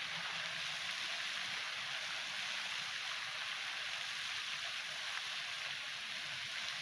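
Garden fountain water splashing in a steady, even hiss.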